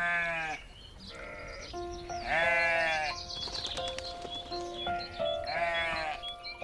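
Three loud bleats, each lasting about half a second to a second, with a fainter short bleat between the first two. Background music with held notes comes in about two seconds in.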